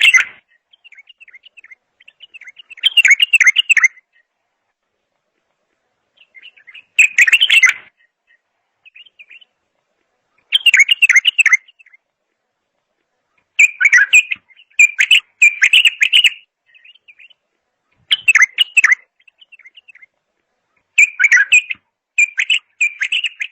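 A songbird singing loud phrases of rapid, warbled notes, each about a second long and repeated every three to four seconds, with soft twittering between them.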